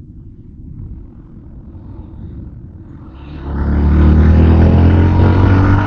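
Motorbike engine running with a low wind rumble on the microphone. About three seconds in, the engine sound grows much louder with a strong low hum, then cuts off suddenly.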